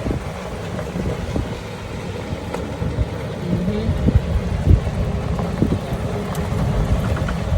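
Road and engine noise inside a moving car: a steady low rumble with frequent irregular low thumps.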